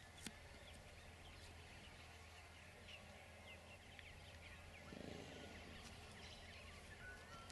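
Near-silent outdoor ambience: many faint small-bird chirps over a steady low hum, with one brief low sound about five seconds in.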